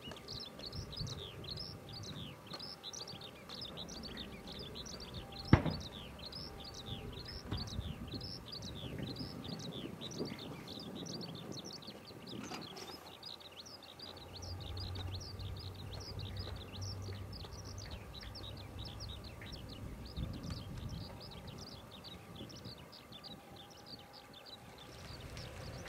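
A bird singing a long, unbroken run of quick high chirps, several a second, over soft outdoor background noise. A single sharp click about five and a half seconds in.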